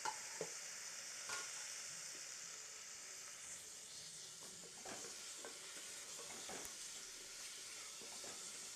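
Diced banana stem sizzling in hot oil with fried onion and spices in a pressure cooker, stirred with a spatula that knocks and scrapes against the pot every second or so.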